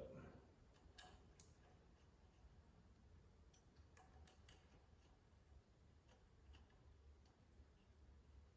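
Near silence: room tone with a low hum and a few faint scattered clicks, as of small handling noises.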